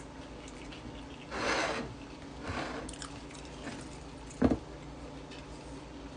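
Close-up chewing of a hash brown, bacon, egg and cheese sandwich: wet, squishy mouth sounds, with a louder burst about a second and a half in and a sharp click about four and a half seconds in.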